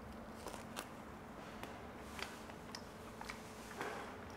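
A man quietly chewing a bite of grilled lamb rib with a crisp outside: faint, scattered crunches and mouth clicks every half second or so over a low room hum.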